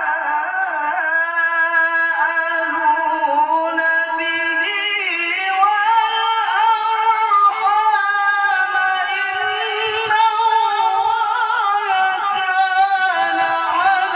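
A male qori chanting Quran recitation in melodic tajwid style, a single voice drawing out long, ornamented notes that waver up and down in pitch.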